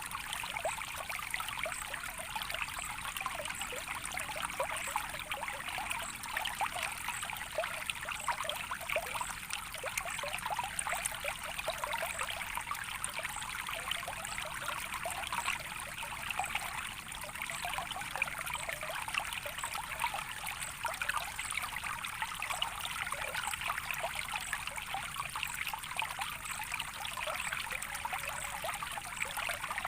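Small stream of water trickling steadily over stones, with a constant fine splashing.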